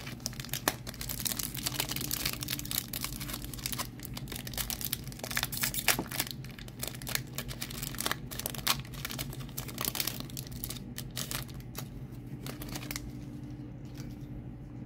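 Foil Pokémon booster pack wrapper crinkling as it is torn open and handled. Dense crackles run through most of it and thin out near the end.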